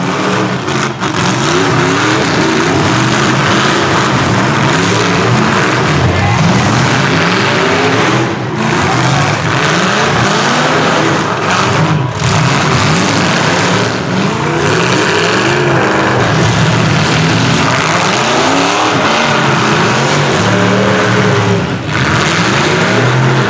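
Engines of several demolition-derby trucks, vans and SUVs revving hard at once. Their pitches rise and fall over one another, with a few brief dips in loudness.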